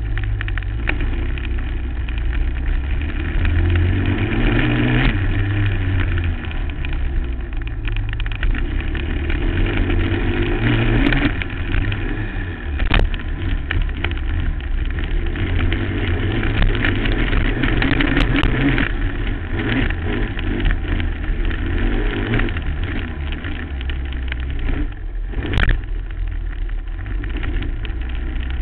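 Suzuki LT-R450 quad's 450cc single-cylinder four-stroke engine revving up and down under hard riding over bumps and jumps, with two sharp knocks, one about halfway and one near the end.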